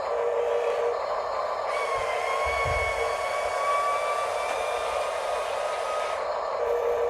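RC construction machines working: small electric motors and hydraulic pumps whir and whine steadily, one whine rising slightly in pitch. A wider hiss comes in near two seconds and stops about six seconds in, and there is a low thump about two and a half seconds in.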